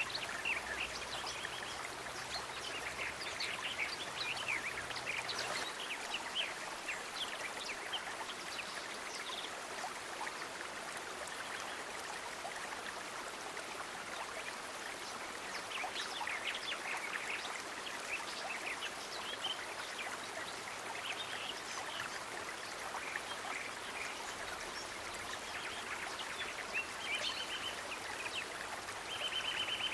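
Steady rushing of running water, such as a stream, with frequent short bird chirps scattered over it. Near the end a fast, evenly repeating trill comes in twice.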